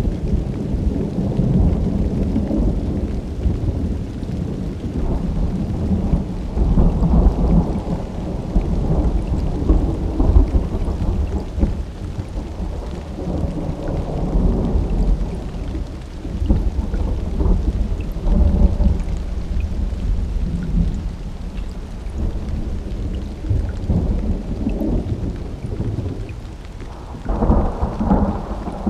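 Summer thunderstorm: thunder rumbling low and long, swelling and fading in waves over steady rain. A sharper, louder peal of thunder breaks in near the end.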